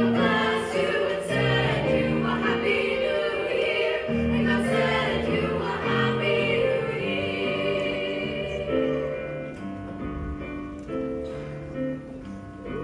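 School choir singing a seasonal song in held, sustained notes, with instrumental accompaniment.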